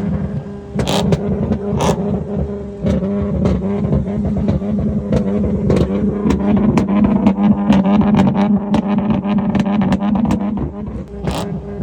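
Car engine being revved hard at a standstill, its pitch rising and falling, with many sharp cracks from the exhaust, thickest in the middle.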